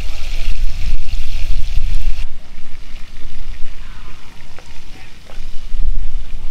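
Banana pieces sizzling in hot oil in a cast-iron pan, over a steady low rumble. About two seconds in the sizzle drops abruptly to a fainter one with a few light clicks.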